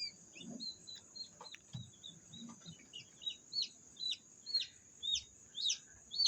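Newly hatched chicks peeping in an incubator: short, high, downward-sliding peeps repeated about two or three times a second, getting louder toward the end.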